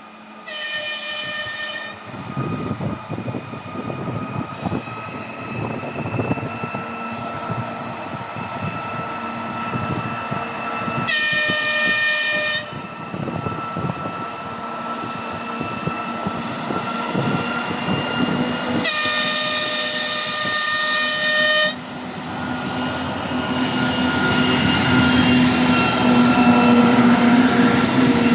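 2TE116U diesel locomotive sounding its horn three times: a short blast at the start, another of about a second and a half partway through, and a longer one of about three seconds. Between the blasts its diesel engines run steadily, growing louder near the end as it pulls away with a freight train.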